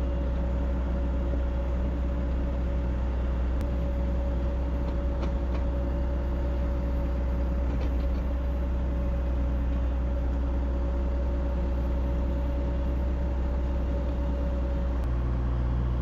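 Excavator diesel engine running steadily with a deep, even hum and a steady high tone over it; near the end the high tone drops out and the engine note shifts lower.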